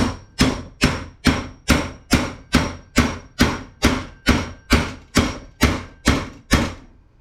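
Machete chopping into a spool of paper-wrapped copper wire: about sixteen sharp strikes at a steady rhythm of a little over two a second, each with a short ring, stopping shortly before the end.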